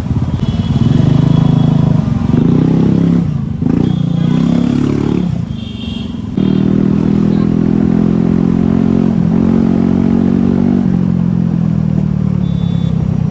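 Scooter engine running under way. It rises and falls in pitch as the rider speeds up and eases off, holds a steady pitch for several seconds, then drops away near the end.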